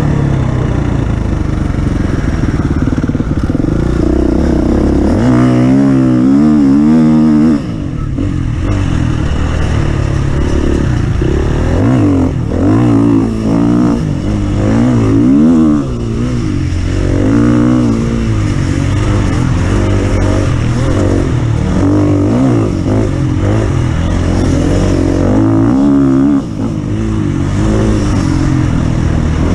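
Off-road vehicle engine revving up and down over and over as it is driven hard, the pitch climbing and falling with throttle and gear changes, with two sudden brief drops in throttle.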